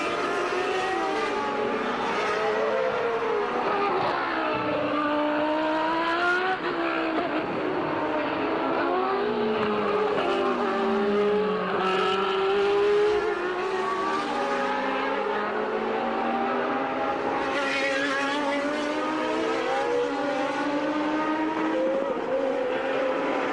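1989 Formula One cars' naturally aspirated 3.5-litre racing engines at race speed, several at once, their pitch repeatedly rising under acceleration and dropping at gear changes and braking as the cars go by.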